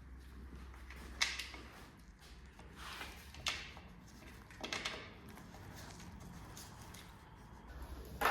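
A few sharp clacks and knocks, spaced a second or more apart, over a low steady hum.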